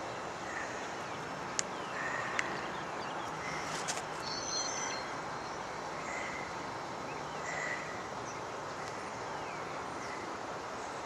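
Short, high chirping calls of distant animals, repeating every second or so over a steady outdoor hiss, with a few sharp clicks.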